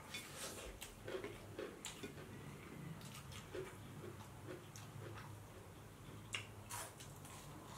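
Close-miked eating: quiet mouth clicks, lip smacks and chewing, with scattered sharp ticks, as two people eat chicken and sel roti by hand. A faint steady low hum runs underneath.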